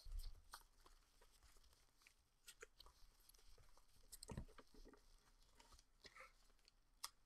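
Faint handling of chrome trading cards: light scattered clicks and rustles as the cards are slid and sorted, with a soft knock about halfway and a sharp click near the end.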